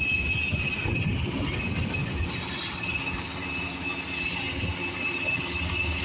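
Firefighting helicopter circling overhead: a steady high turbine whine over a low, uneven rumble.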